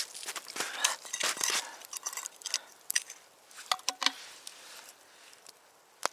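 Dry wood crackling and snapping in irregular sharp cracks, thickest in the first couple of seconds, then a few single snaps and quieter toward the end.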